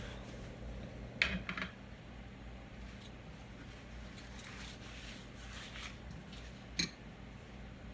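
Light clatter of dishes and utensils being handled: a quick cluster of small knocks a little over a second in and a single sharp click near the end, over a low steady hum.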